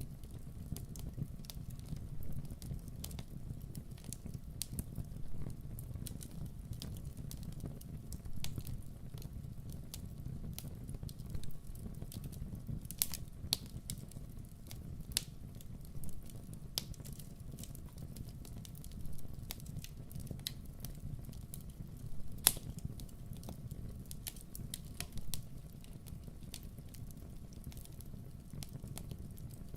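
Campfire burning with a steady low rumble and frequent irregular crackles and pops; one sharp pop about three-quarters of the way through is the loudest.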